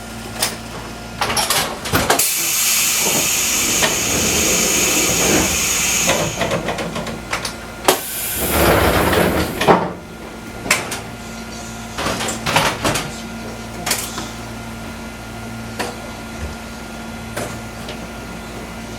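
Cab sound of a Fukui Railway 200-series train: a hiss of compressed air starts about two seconds in and lasts some four seconds, and a louder rushing burst follows around the middle. Scattered clicks and knocks sound over a steady low hum.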